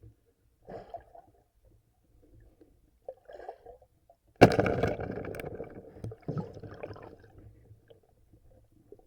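Water splashing and gurgling in a few short bursts, with one sudden loud splash about four and a half seconds in that dies away over a couple of seconds.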